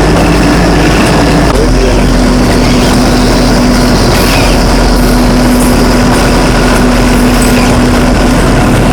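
Train running, heard on board: a loud steady rumble and rush of noise with a steady engine hum that drops slightly in pitch about a second and a half in.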